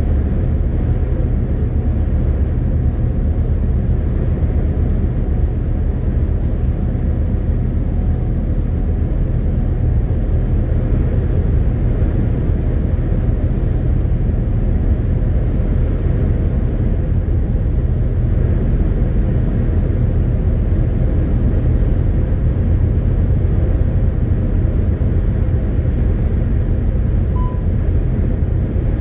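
MAN TGX 18.520 truck's six-cylinder diesel engine and tyre and road noise while driving at a steady pace, a continuous low rumble. A brief short beep sounds near the end.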